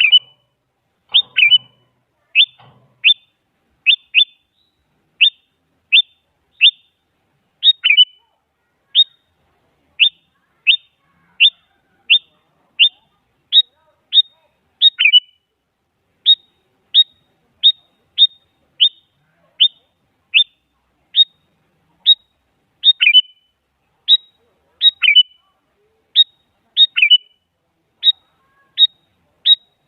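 Sooty-headed bulbul calling over and over in short, sharp notes, about one and a half a second. Each note is a quick downward sweep, and some are followed by a brief second note.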